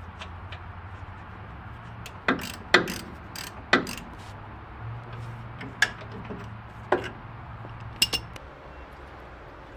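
Irregular sharp metallic clicks and knocks of tools and parts being handled during mechanical work on a car, about seven in all, over a low steady hum.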